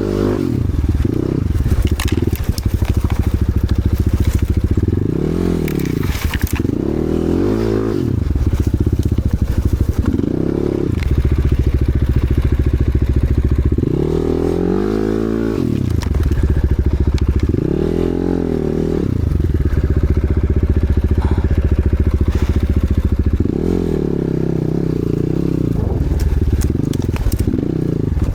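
Enduro motorcycle engine running hard, its revs rising and falling again and again every few seconds under repeated bursts of throttle.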